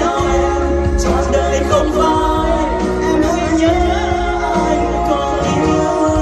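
Vietnamese pop ballad playing: a melody line over full band backing.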